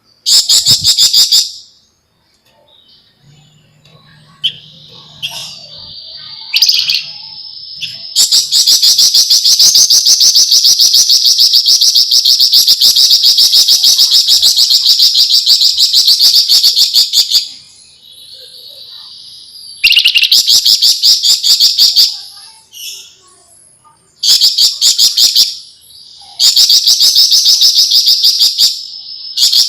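Javan fulvetta (flamboyan) singing its fast, dense rattling trill, the 'ngebren nyerecet' chatter, in repeated bursts. One long run lasts about nine seconds, with quieter, steadier high notes between bursts.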